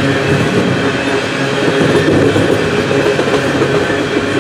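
Freight train tank cars rolling over a steel girder bridge: a steady, loud rumble and clatter of steel wheels on the rails.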